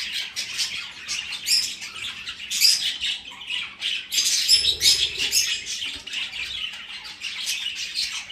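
A flock of budgerigars chirping and chattering without a break, many birds calling over one another in quick high chirps and squawks.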